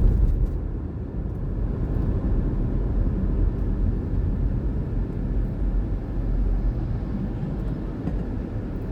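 Steady low rumble of a truck on the move: engine and road noise.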